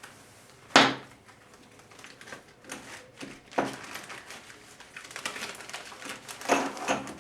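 Irregular clicks and knocks of parts and tools being handled during a 4L60E transmission teardown, with a sharp knock about a second in and more near the end.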